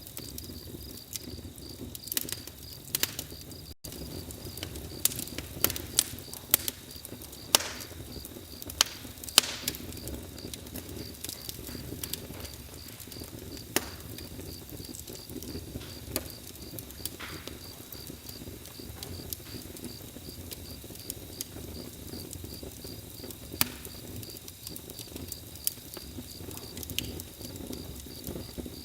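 Wood fire crackling, with irregular sharp pops and snaps, some loud, over a low steady rumble. A steady high pulsing chirp of crickets runs behind.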